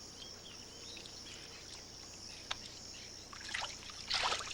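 Wetland ambience: a steady high insect hiss with faint scattered bird chirps, one sharp click about halfway, and a short splash of water near the end.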